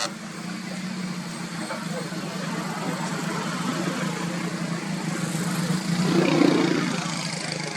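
Steady low engine hum, like a vehicle idling, with a louder swell about six seconds in.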